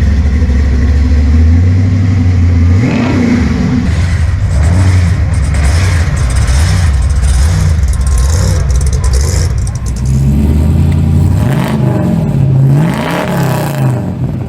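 Loud car engines idling, then revved again and again, the engine note rising and falling several times. There is a quick run of revs near the end.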